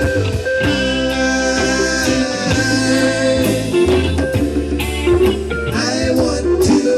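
Live band music: an acoustic guitar and bass playing a steady beat with drums, in an instrumental passage between sung lines of the song.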